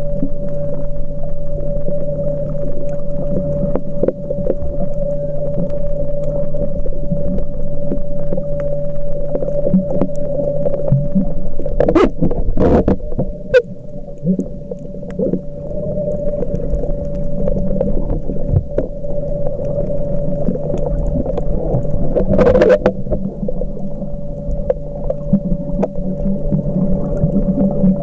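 Muffled underwater sound with a steady two-note hum throughout, and a few sharp knocks about twelve seconds in and again near twenty-two seconds.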